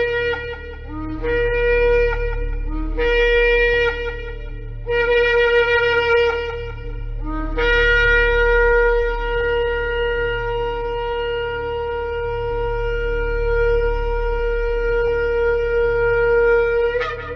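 Shofar (ram's horn) being blown: four short blasts, each breaking up from a lower note, then one long held blast that flicks upward at its end. A low steady drone runs beneath.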